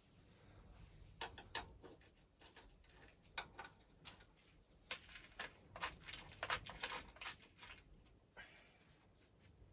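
Faint scattered clicks and light knocks of lawnmower parts and tools being handled, busiest from about five to eight seconds in.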